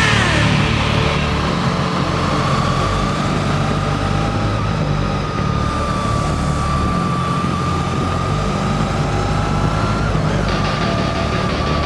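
Honda VFR 800's V4 engine running steadily at road speed, heard from a camera on the bike's fairing, with wind rush and a steady high whine over the engine note.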